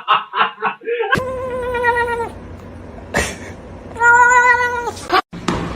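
A cat meowing twice: two long, level-pitched meows of about a second each, the second coming about three seconds after the first.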